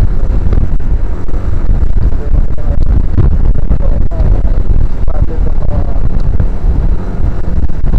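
Motorcycle riding along the road: wind noise loud on the action camera's microphone, with the bike's engine running underneath.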